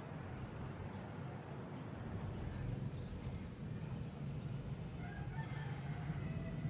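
Steady low wind rumble outdoors, with a faint bird call about five seconds in.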